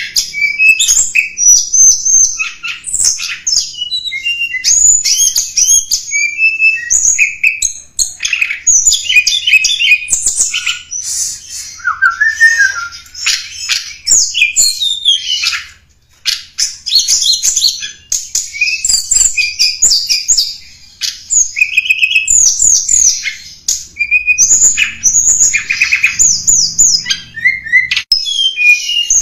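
Tledekan gunung singing a long, fast, varied song of high chirps, trills and whistled notes, with only brief pauses. This is a lure call used to draw in wild birds of its kind.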